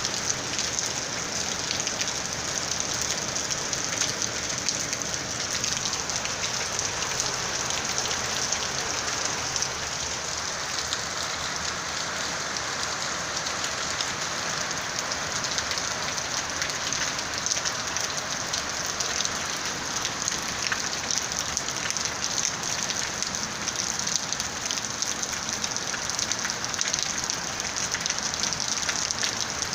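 Steady heavy rain falling on a rooftop: a dense, even hiss of drops with countless fine patters, unchanging throughout.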